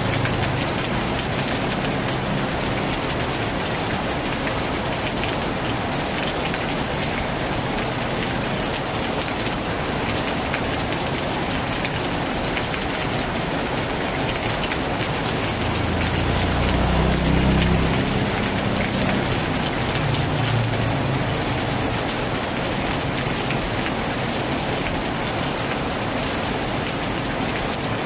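Heavy rain falling steadily. A low rumble swells about sixteen seconds in and fades after a couple of seconds, with a weaker one shortly after.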